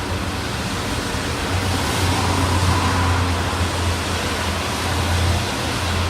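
Rolling thunder: a low, steady rumble over a hiss, swelling about a second and a half in and easing slightly near the end.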